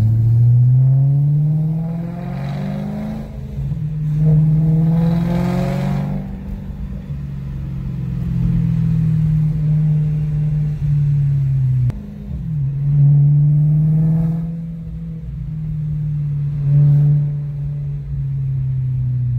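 BMW M3 engine through a Borla aftermarket exhaust, heard from inside the cabin while accelerating through the gears. The engine note climbs twice in the first six seconds, dropping between as it upshifts, then holds steady at cruise, dipping again about twelve seconds in.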